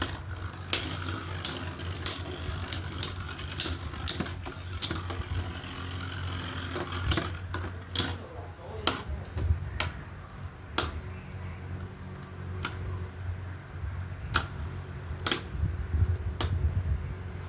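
Metal Beyblade spinning tops clashing in a stadium: sharp, irregular clicks and knocks about once or twice a second over a steady low hum.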